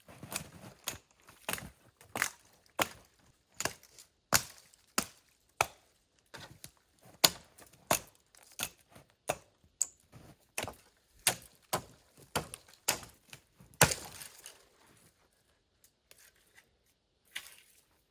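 Hatchet chopping wood: about twenty sharp, evenly paced strikes, roughly one and a half a second, stopping about 14 seconds in.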